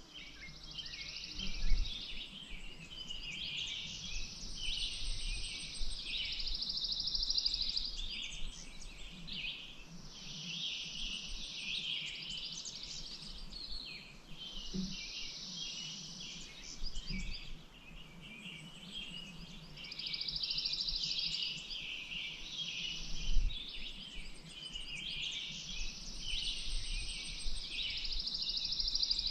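Birds singing: one songbird repeats a trilled song phrase about every four to five seconds, with other chirps between. Two brief low thumps, about two seconds in and about two-thirds of the way through.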